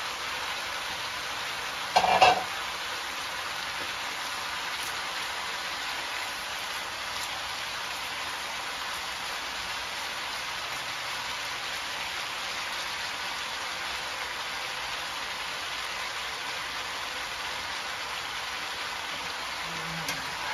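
Cabbage, mung bean sprouts and carrots sizzling steadily as they stir-fry in a wok, with one short loud clatter about two seconds in.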